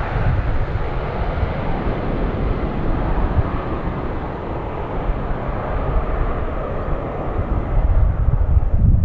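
Jet airliner engine noise, a steady broad rush that slowly grows duller as the aircraft moves away.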